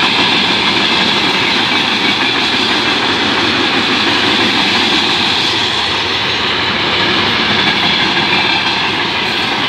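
Freight wagons of a mixed freight train (tank cars, hoppers and boxcars) rolling past close by at speed. Their wheels make a loud, steady rolling noise on the rails.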